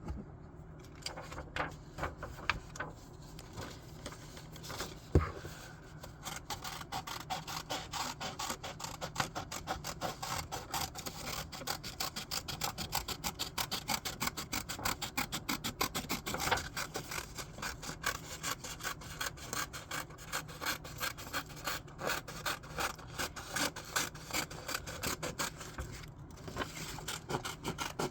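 Rapid back-and-forth rubbing strokes on paper, several a second, as an area of a drawing is colored in. The strokes begin about six seconds in, after a quieter stretch broken by a single knock about five seconds in.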